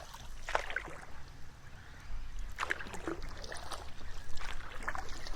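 A boat paddle dipping and pulling through calm water, faint splashes and drips about every two seconds.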